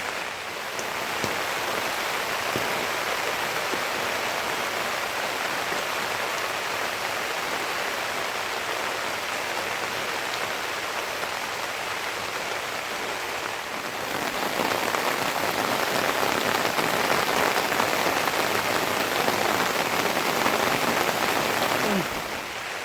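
Steady rain falling, a dense even hiss that grows heavier about two-thirds of the way through and eases just before the end.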